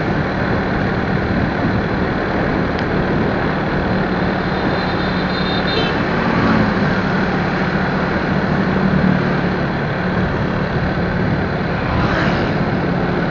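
Motorcycle on the move: steady wind and road noise over the engine's constant hum.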